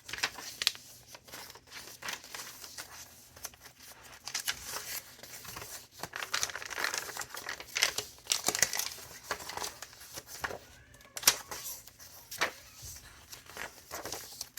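Pages of a thick handmade junk journal being turned and handled: repeated paper rustling and crinkling with sharp flicks and taps.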